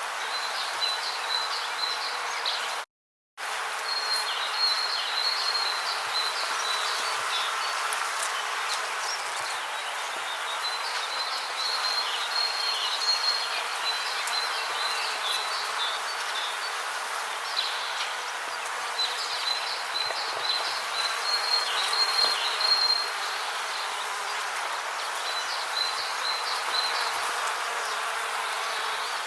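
Rainforest ambience: a dense, steady insect hiss with repeated high, rapid chirping calls in short phrases. A brief moment of total silence falls about three seconds in.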